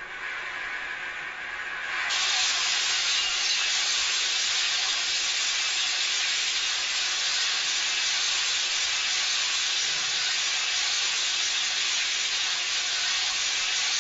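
A steady, even hiss with no distinct knocks or crashes in it, jumping louder and brighter about two seconds in.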